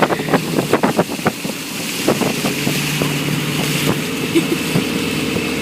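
Boat engine running steadily, with wind noise on the microphone. A run of short knocks or clicks in the first second or so.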